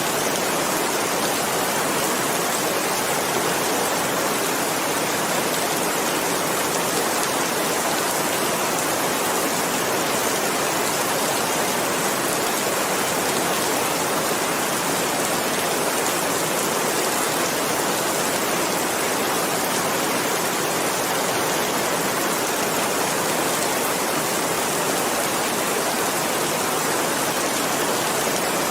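Steady, heavy rain, a dense even hiss of falling water with no distinct drops or thunder.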